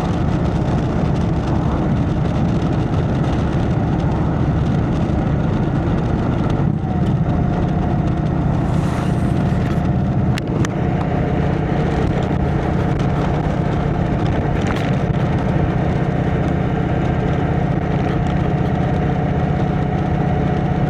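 Indian Chieftain's V-twin engine running steadily through a Freedom Performance exhaust, a low, even engine note. A faint steady whine joins it about seven seconds in.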